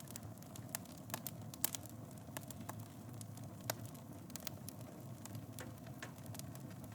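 Wood fire burning in a fireplace, a steady low rumble of flame with irregular crackles and a few louder pops.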